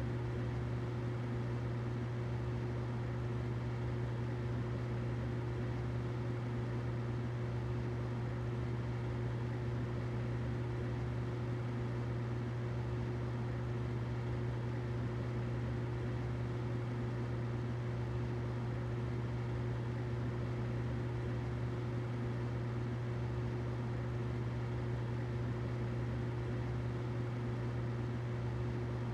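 Humidifier running: a steady low hum over an even hiss, unchanging throughout.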